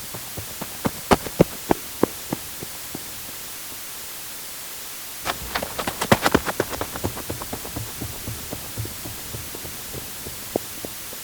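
Baseball-related clatter of hard objects knocking together. The first run is about a dozen sharp knocks, spaced further apart as they die away over three seconds. About five seconds in comes a dense, louder burst of knocks that thins out slowly.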